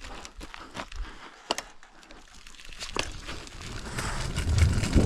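Mini bike rolling down a dirt jump trail: scattered clicks and rattles, then a low rumble of tyres on the ground that builds and grows louder in the second half.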